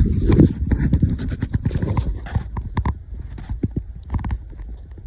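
Footsteps crunching in snow: a quick, irregular run of crunches, heavier in the first half second and lighter after about three seconds.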